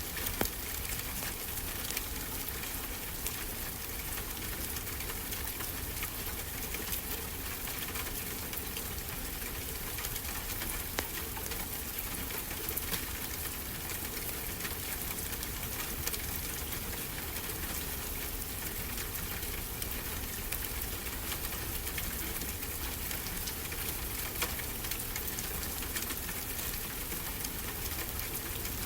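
Wood fire crackling, with scattered sharp pops and snaps, over a steady low wash of ocean surf.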